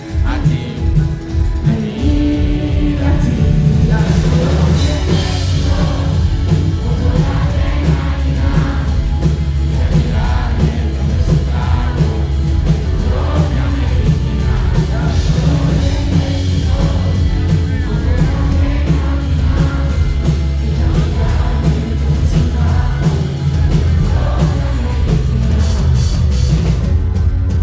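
Live pop-rock concert music: a band with heavy bass, and a voice singing over it, heard from the audience.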